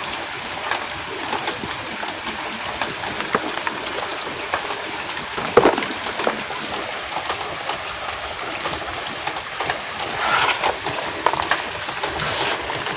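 Steady rain falling, with many small crisp, crumbly crunches of reformed gym chalk being crushed, and a louder crunch about five and a half seconds in.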